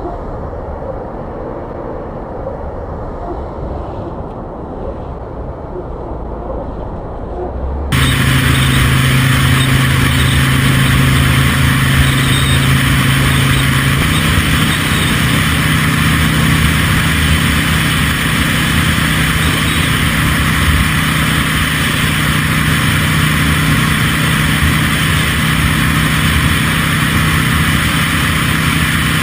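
Motor vehicle engines running, with rushing wind noise. About eight seconds in the sound jumps abruptly to a louder, steadier engine note with heavy wind on the microphone.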